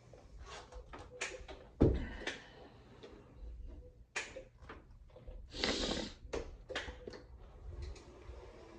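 A string of light knocks and clicks from movement and handling in a small room, loudest a single thump about two seconds in, with a short rustle near the six-second mark.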